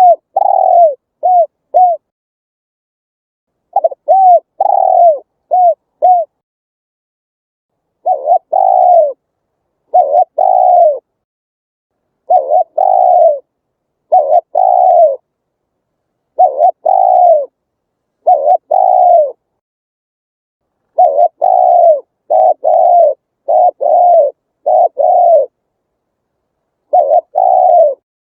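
Spotted dove cooing: short phrases of a few hollow coos each, repeated every two seconds or so, with silent gaps between them and a longer pause near the middle.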